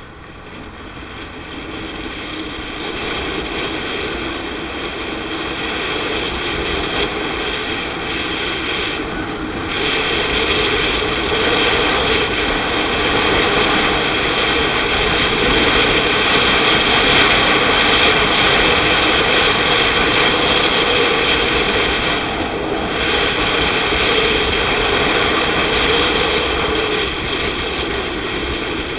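Motorcycle on the move: a steady rush of wind and engine noise that builds over the first ten seconds or so as speed rises, with two brief dips.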